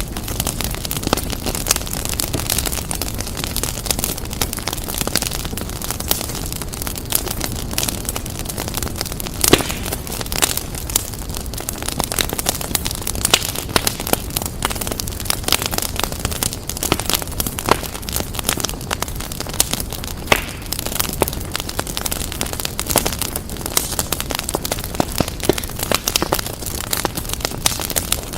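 Fire crackling in a fireplace: irregular sharp pops and snaps over a steady low rumble of the flames, with one louder pop about nine seconds in.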